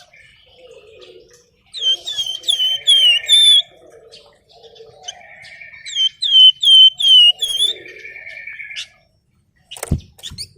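A songbird of the kind Indonesian keepers call 'flamboyan' singing: two loud runs of five or six sharp, quickly repeated whistled notes, each falling in pitch, about two and six seconds in, with buzzy trills and softer low warbling between them. A short thump comes near the end.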